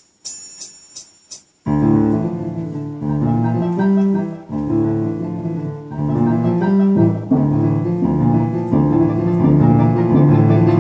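Metronome or count-in clicks, about three a second, then a piano piece starts about one and a half seconds in and plays on steadily, with a backing accompaniment at a tempo of 170.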